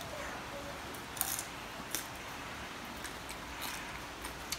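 Crisp roasted pig-head skin being bitten and chewed: a few short, sharp crunches spaced about a second apart, over a faint steady hiss.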